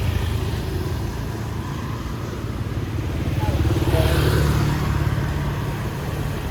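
Motorbike engine running close by in street traffic, swelling louder about four seconds in.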